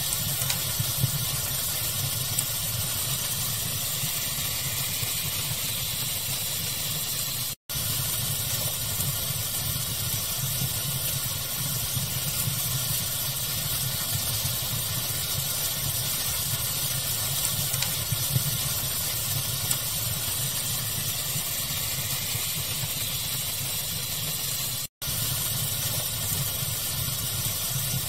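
Steady rushing pink noise mixed with a fire's crackle, with a few sharper crackles. The sound cuts out for an instant twice.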